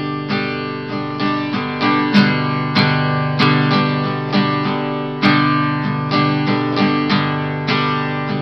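Guitar strummed in a steady down, down, down, up, down, up rhythm, with chord strokes a few times a second.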